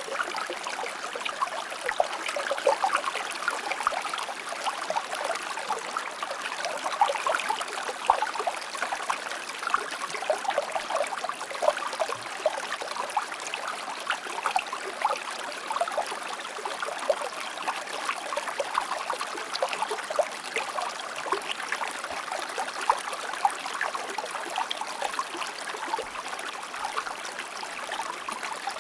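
River water flowing in a steady, unbroken babble, full of small splashes and gurgles.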